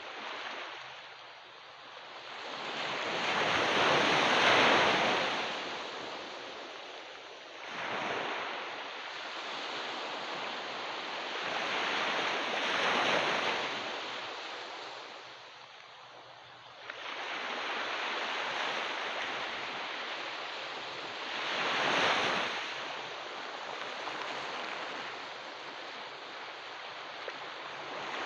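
Ocean waves breaking on a beach: the surf swells up and washes back in a slow rhythm, one wave every four to five seconds.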